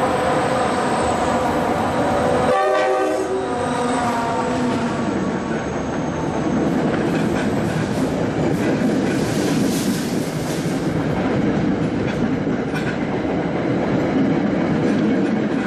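A train sounding its horn, a chord of several tones that drops in pitch abruptly about two and a half seconds in as the train draws level, then the train rumbling past with wheels clattering over the rail joints.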